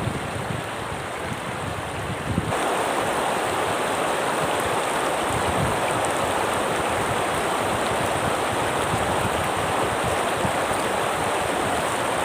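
Steady rushing noise of water, getting louder about two and a half seconds in.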